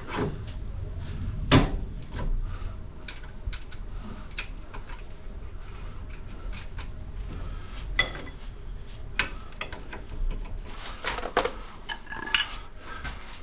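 Steel hand tools and suspension hardware clinking and knocking, with a series of irregular sharp metallic clicks, as wrenches and bolts are handled during a front control-arm replacement. The loudest knock comes about a second and a half in, and a ringing clink of metal comes about eight seconds in.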